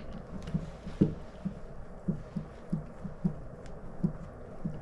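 Soft, low knocks at an uneven pace, about three a second, over a faint steady background hum.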